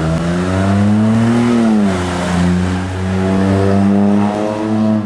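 Exhaust of a Suzuki Jimny JB64W's 660 cc turbocharged three-cylinder engine through a GANADOR GDE-158 sport muffler, accelerating at medium speed. The pitch climbs, drops sharply about two seconds in as the four-speed automatic shifts up, then climbs again and holds until it cuts off at the end.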